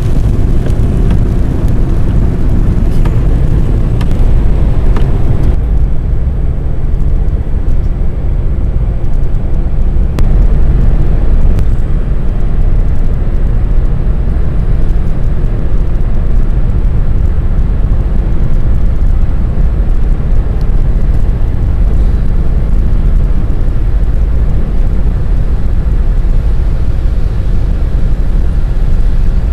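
Steady, loud rumble of the flooded Calapooia River rushing past, heaviest in the low end and easing slightly in the highs about five seconds in.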